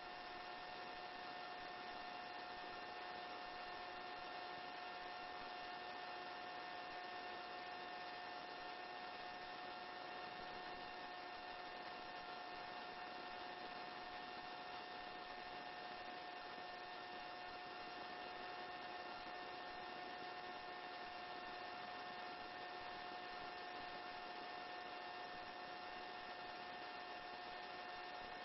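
Faint, steady electrical hum with a few steady whining tones, unchanging throughout: the quiet background of a helicopter's intercom and radio audio feed between transmissions.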